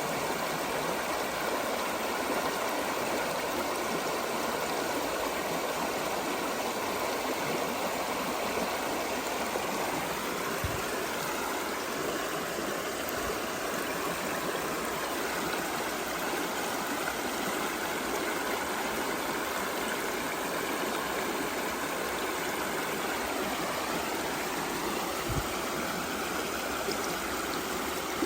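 Creek water running steadily over rocks, a continuous rushing and trickling.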